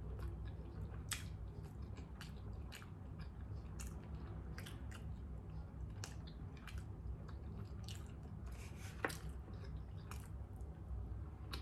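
A person chewing a mouthful of chili dog and bun, with soft wet mouth clicks and smacks at irregular intervals over a low steady hum.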